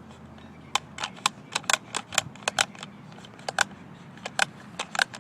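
Sharp, irregular clicks and knocks, about a dozen over a few seconds, from handling an old McCulloch chainsaw's controls while it is readied for a cold start; the engine is not running.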